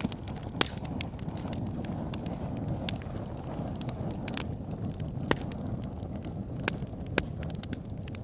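Wood fire in a fireplace crackling: a steady low rush of flames with frequent sharp pops of the burning logs, the loudest about half a second in and a few more in the second half.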